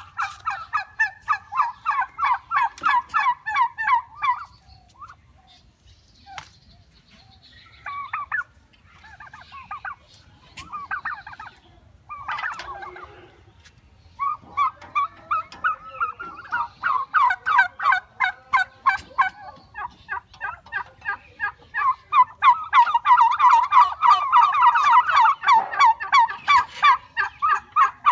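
Turkeys gobbling in long rapid rattling runs. There is a lull with only scattered short calls in the middle, then several gobbles overlap, loudest near the end.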